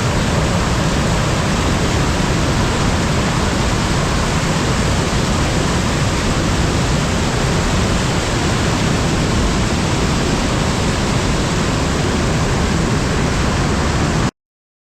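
A waterfall rushing steadily and loudly, in full flow after heavy rains, then stopping abruptly near the end.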